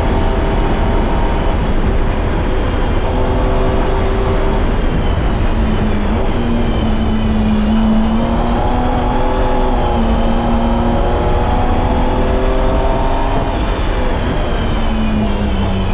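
BMW E30's M20B25 2.5-litre inline-six engine running hard on track. Its pitch climbs and falls as the car accelerates and slows, dipping about ten seconds in and dropping again near the end, over a loud steady rush of noise.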